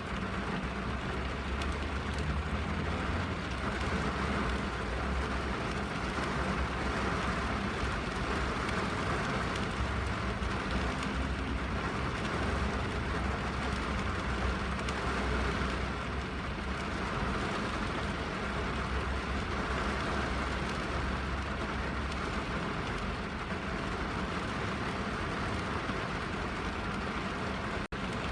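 Steady rain falling on a car's roof and windows, heard from inside the cabin, with a low rumble underneath.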